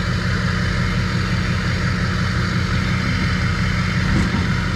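Vehicle engine running with a steady low drone, no change in speed or pitch.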